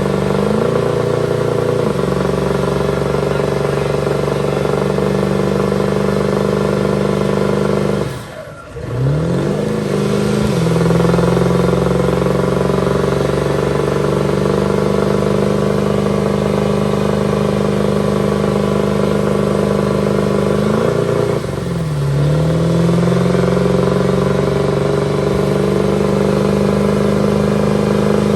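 Truck engine held at high, steady revs in a burnout. Twice, about a third of the way in and again about three quarters through, the revs drop briefly and climb back to the same held pitch.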